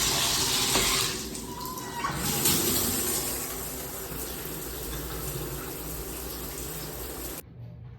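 Water running steadily, loudest for about the first second and then softer. The flow is shut off suddenly near the end.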